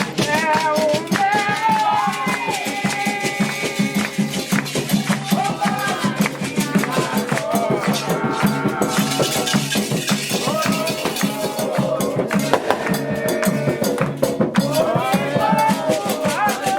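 Candomblé ritual music for Xangô: hand drums and a rattle keep a fast, steady beat while voices sing a chant in Yoruba.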